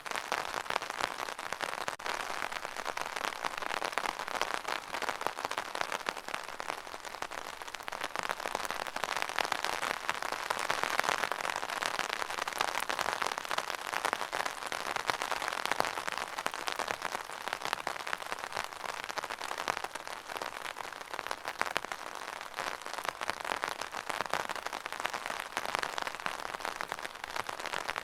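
Steady rain pattering on a surface, a dense crackle of many drops that swells a little around the middle and eases again.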